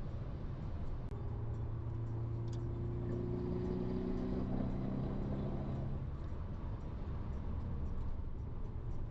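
Car engine running while driving, with road and tyre noise; the engine's pitch eases slightly lower about halfway through.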